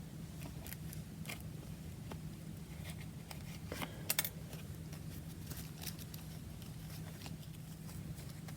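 Faint scattered clicks and taps of paper and craft materials being handled on a tabletop, with a short cluster of sharper clicks about four seconds in, over a low steady hum.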